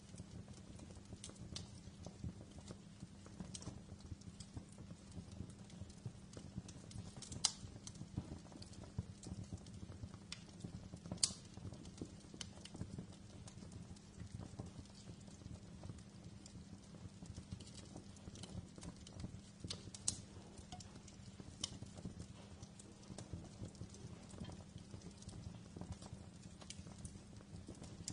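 Wood fire crackling: a steady low rumble of flames with frequent small, irregular pops and snaps, and three louder pops about 7, 11 and 20 seconds in.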